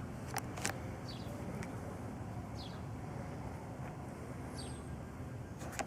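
Outdoor background of a steady low rumble with a few short, high, falling bird chirps spaced through it. Two sharp clicks come about half a second in.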